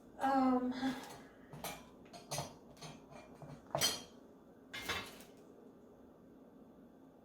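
Metal bird-cage parts clinking and knocking together as they are handled and fitted, about half a dozen separate clanks over roughly four seconds, after a short pitched squeak or hum at the start.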